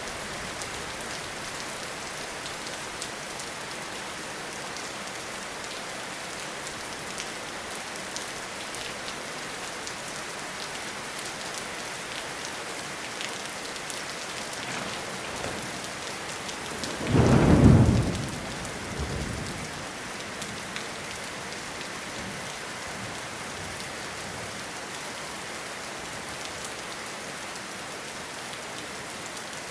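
Steady rain falling in a forest, with one short, loud clap of thunder a little past halfway through, trailing off in a brief fainter rumble.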